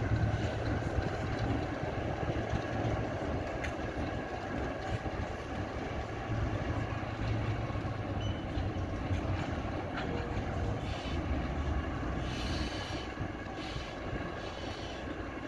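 A train running at a railway station: a steady low rumble with no let-up, with a few brief higher-pitched noises in the last few seconds.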